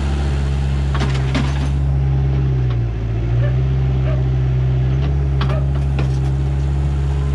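Backhoe's diesel engine running steadily as it digs, its pitch dipping briefly about three seconds in as it takes load, with a few sharp knocks from the digging.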